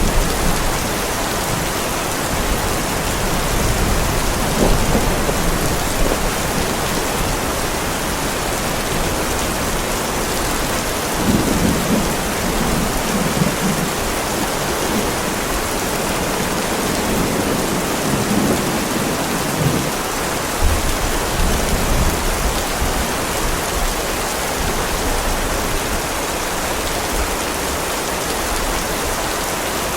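Heavy rain falling steadily on a driveway, a dense even hiss, with low rumbles of thunder swelling in the middle.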